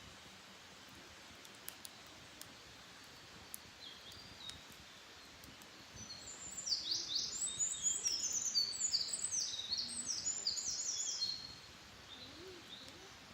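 A wild songbird sings one long, fast run of quick high notes, each sliding downward, starting about six seconds in and lasting about five seconds. A few faint clicks come before it, over a low steady outdoor background.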